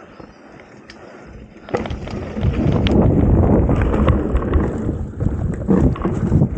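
Mountain bike riding down a rough trail: wind buffeting the microphone and the bike knocking and rattling over the ground, quiet at first and turning loud about two seconds in as speed picks up.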